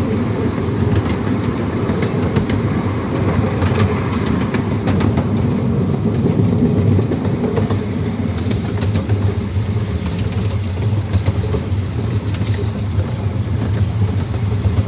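Miniature amusement-park train rolling along its track, heard from aboard a car: a steady rumble with scattered clicks of the wheels over the rail joints.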